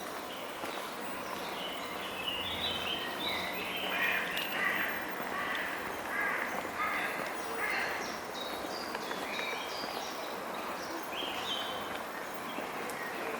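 Several birds singing and calling, many short chirping notes in quick succession, over a steady hum of distant background noise.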